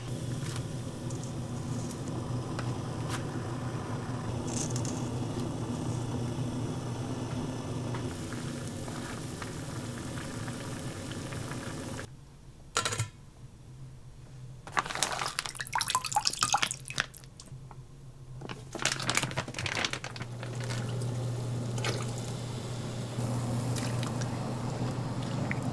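Kitchen water running or pouring in two loud splashing stretches over the second half, after a sharp knock, with a steady low hum underneath the rest.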